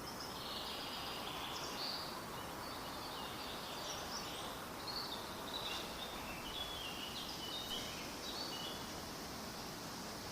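Birds chirping in quick runs of short high notes over a steady background hiss; the chirping fades out near the end.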